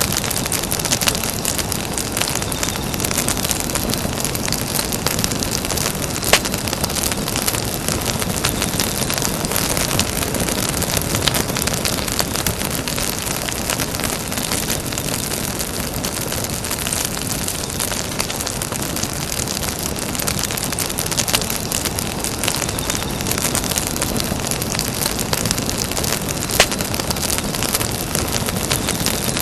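Campfire burning: a steady hiss thick with small crackling snaps, and two louder pops, one about six seconds in and one near the end.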